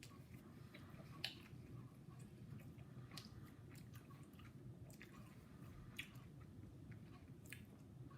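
A person chewing a mouthful of hot-and-spicy sub sandwich with jalapeños: faint wet mouth clicks and smacks every second or two, over a low steady hum.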